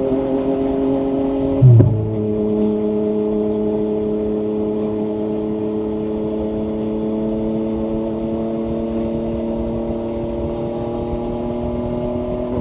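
Yamaha MT-09 SP's inline-three engine running through an Akrapovic carbon exhaust at steady revs. Nearly two seconds in, a brief loud low thump comes as the engine note drops a step, and then it runs on steadily at the lower note.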